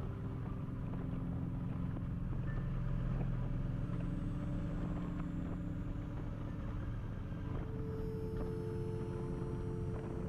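Kawasaki Vulcan motorcycle under way: steady engine rumble and rushing noise heard from the rider's camera.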